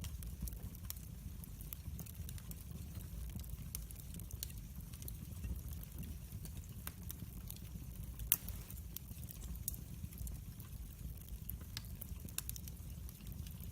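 Wood fire crackling in a fireplace: scattered sharp pops and snaps over a low steady rumble of flames, with one louder pop a little past the middle.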